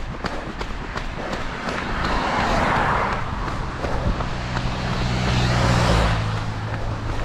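A motor vehicle passing close by: its noise swells and fades about two to three seconds in, then a steady low engine hum with a second swell follows. The runner's footsteps go on underneath.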